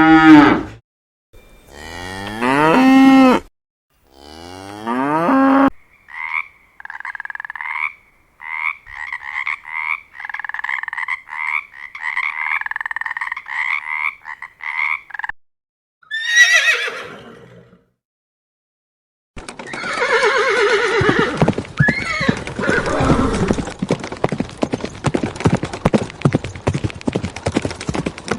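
Cows mooing, three long low calls, followed by about nine seconds of rapid, evenly repeated short animal calls. Then a falling, quavering horse whinny, and from about two-thirds of the way in, horse hoofbeats with another neigh.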